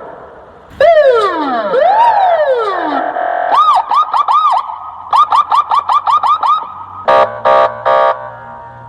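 Emergency vehicle siren sliding down and up in long wails, then switching to a fast yelp of about four to six sweeps a second. Near the end come three short horn blasts.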